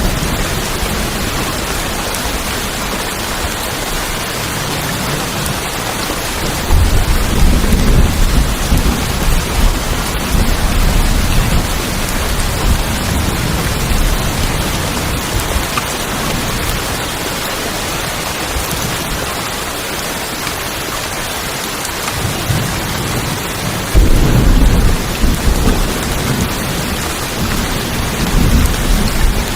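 Steady rain drumming on tin roofs, a constant hiss, with rolling thunder that swells about a quarter of the way in and again near the end.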